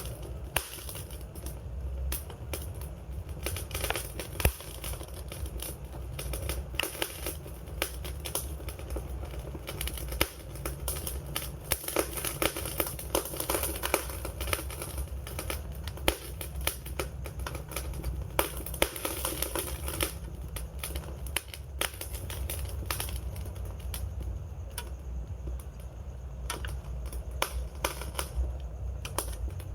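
Wood fire burning with dense, irregular crackling and popping over a low, steady rumble of the flames.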